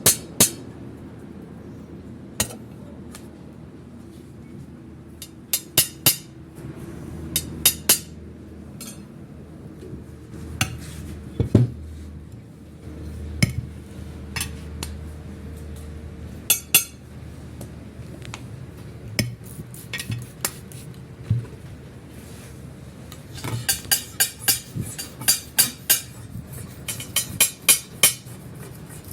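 Glass being struck again and again to break it: sharp clinking strikes with a brief ring, scattered at first, then in quick runs near the end.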